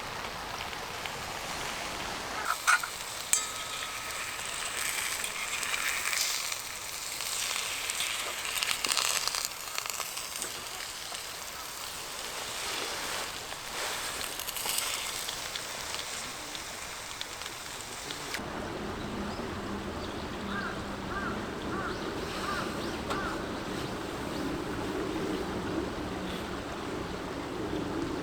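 Food sizzling in a frying pan, a steady high hiss with a few sharp clicks. About two-thirds of the way in it cuts to a small stream flowing, with four short high chirps a few seconds later.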